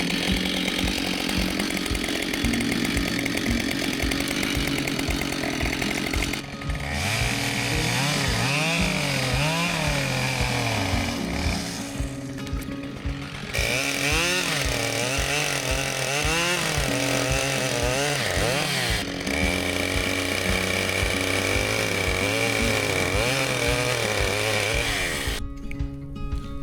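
Gasoline chainsaw cutting downed trees into logs, its engine revving up and down over and over, with short lulls between cuts. Background music plays under it, and the saw stops near the end, leaving only the music.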